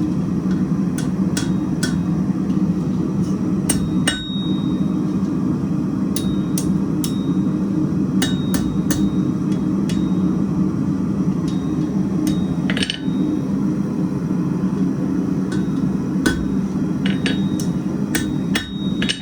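Blacksmith's hammer striking hot steel over the horn of an anvil, an irregular series of blows, some with a short metallic ring, bending the end into a hook. A steady low hum runs underneath.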